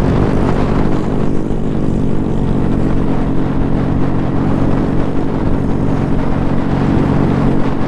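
Honda Grom minibike's single-cylinder four-stroke engine running at a steady speed while riding, a loud even drone.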